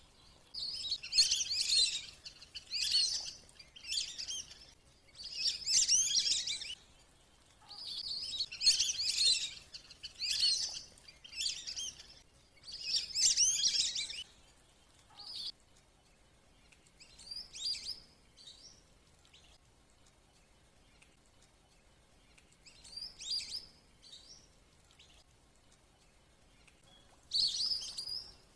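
Lesser whistling-duck calls played as a lure recording: bursts of high, chirping whistles, coming close together for the first half and only now and then after that.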